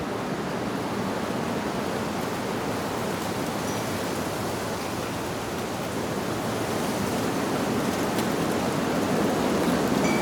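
Wind blowing through leaves: a steady rushing rustle that swells a little louder over the last few seconds.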